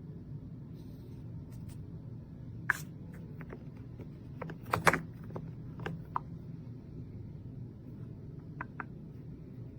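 A scattering of light clicks and knocks, the loudest few together about five seconds in, over a steady low hum.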